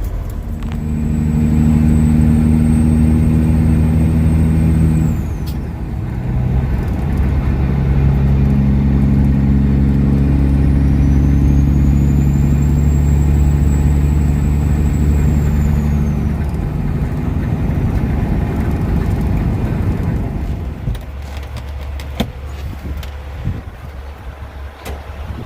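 Kenworth W900 semi truck's diesel engine pulling under load through the gears. The engine note drops at a gear change about five seconds in, climbs again, shifts once more around sixteen seconds and eases off near the end. A high whistle rises and falls with the revs.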